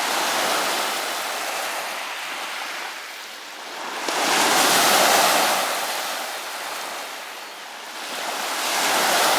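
Sea waves washing in on a sandy shore, swelling and fading about every four to five seconds: three surges, the loudest about five seconds in.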